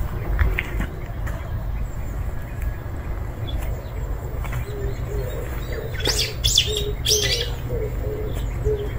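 Small birds chirping, with a cluster of sharp, bright chirps about six seconds in, over a steady low rumble. From about five seconds in, a string of short low notes repeats roughly twice a second.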